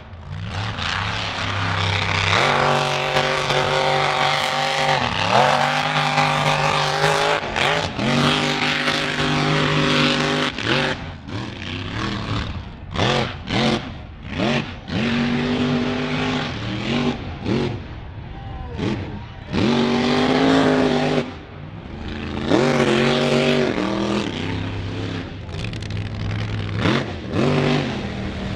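Mud truck engine revving hard. The pitch climbs and drops in long pulls at first, then comes in a run of short rev blips through the middle, then climbs into long pulls again near the end.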